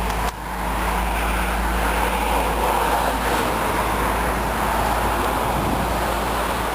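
A 2005 Nissan Pathfinder's 4.0-litre V6 idling steadily, with an even low hum and a broad hiss on top.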